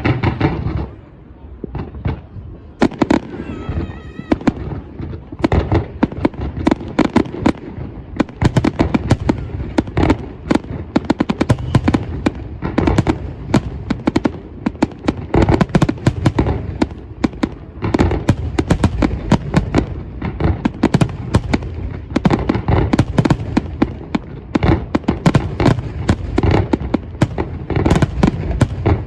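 New Year's Eve fireworks: a dense, continuous run of bangs and crackles from many fireworks going off at once, with a brief lull about a second in.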